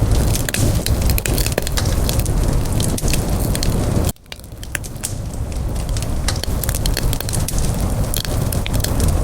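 Wood campfire crackling and popping in dense sharp snaps over a steady low rumble of burning. About four seconds in the sound drops out suddenly and swells back up over the next couple of seconds.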